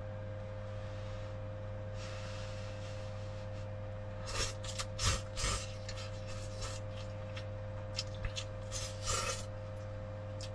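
A person eating instant noodles: a run of about a dozen short slurping sounds over roughly five seconds, over a steady low hum.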